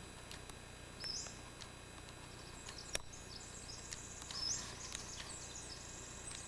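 Small forest birds calling: a short high call that sweeps up and levels off, given twice, with softer high twittering between them. A single sharp click about three seconds in.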